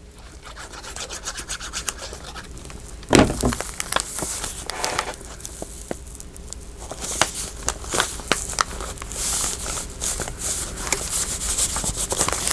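Paper and lace being handled and rubbed by hand, giving a steady rustle with many small clicks and one sharper knock about three seconds in.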